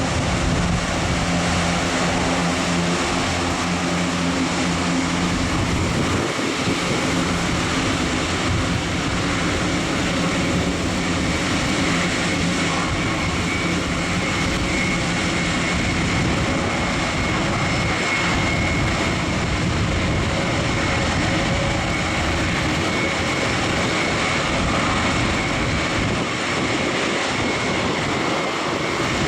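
Airbus A400M Atlas's four TP400 turboprop engines running at taxi power, a steady propeller and engine drone. A thin, high steady whine comes in about twelve seconds in and fades before the end.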